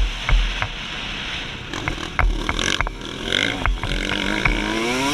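A 2003 Suzuki RM125 two-stroke 125 engine off the throttle and running low, with sharp knocks and thumps from the bike over the track. About four seconds in, the engine's revs climb again as the throttle opens.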